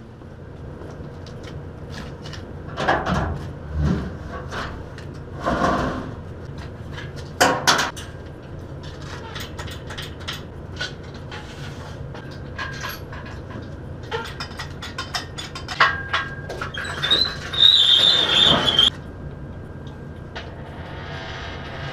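Heavy metal engine parts being handled and dragged out of a truck bed: scattered knocks, clunks and scrapes, with a high squeak and scraping for about two seconds near the end.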